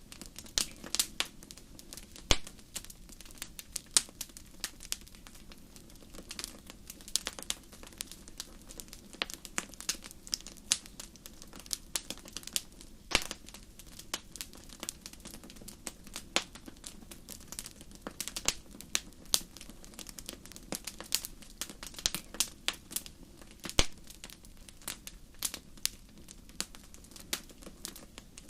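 Wood fire crackling: irregular sharp pops and snaps, several now and then much louder than the rest, over a low steady hiss.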